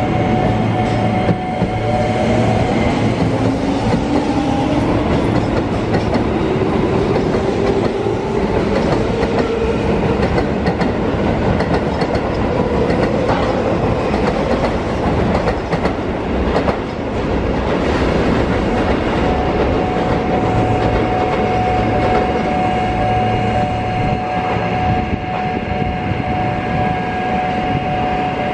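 Keio Line electric commuter train pulling away and gathering speed, its traction motors giving a whine that rises in pitch over the first half, over a steady rumble and clatter of wheels on the rails and pointwork.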